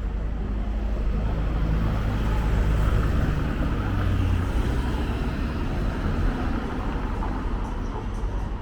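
A motor vehicle driving past close by: a low engine and tyre rumble that swells to its loudest about three seconds in, then slowly fades as it moves away.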